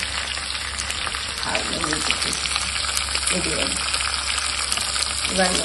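Chopped onions, green chillies and dried red chillies frying in hot oil in a pan, with a steady sizzle full of small crackles. A steel spoon stirs them around the pan.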